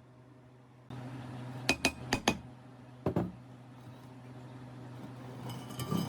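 Hard parts clinking and knocking together: four sharp clinks in quick succession about two seconds in, another pair about a second later, and a flurry of lighter clinks near the end, over a low steady hum that starts about a second in.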